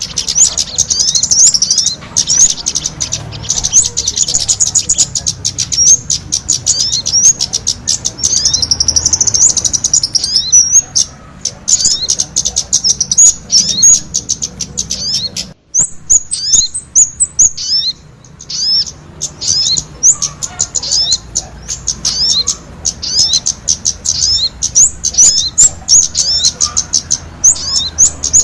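Bird-lure recording of small birds, sogon calls combined with kemade calls, chirping rapidly in thin, high, quick notes, several a second. There is a brief break about halfway through.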